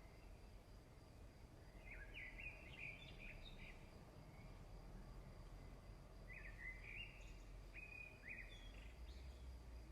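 Faint birdsong: two short phrases of quick chirping notes, about two seconds in and again about seven seconds in, over a low steady background rumble.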